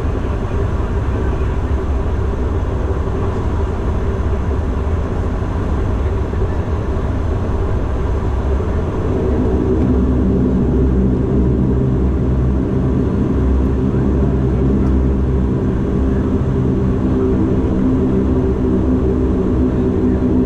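Cabin noise of a Bombardier Dash 8 Q400 turboprop with its engines running: a steady low rumble. About nine seconds in, it grows a little louder and the propeller hum becomes distinct as engine power comes up.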